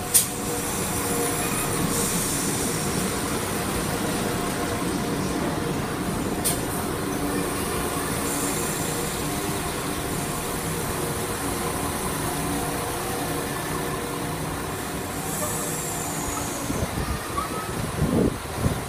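London Midland diesel multiple unit running in along a station platform: a steady diesel hum with rolling wheel noise as it slows to a stand. A sharp click right at the start and another about six and a half seconds in.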